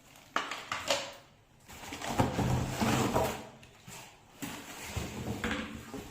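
Handling of vacuum cleaner parts and their packaging: two sharp clicks, then stretches of rustling and knocking.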